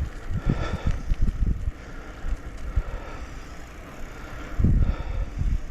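Wind buffeting a shirt-mounted camera microphone while cycling, with irregular low thumps and the rider's heavy breathing from exertion in the heat, loudest about four and a half seconds in.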